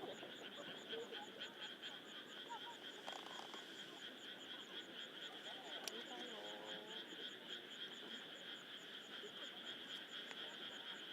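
Faint chorus of frogs calling from the surrounding fields, a steady high trill with a quick regular pulse, about five a second, over the faint murmur of distant voices.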